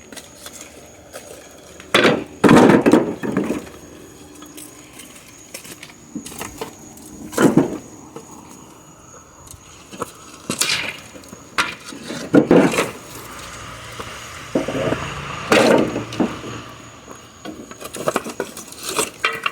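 Pieces of firewood being dropped and stacked for a small bonfire, a wooden knock or clatter every few seconds; the loudest is about two seconds in.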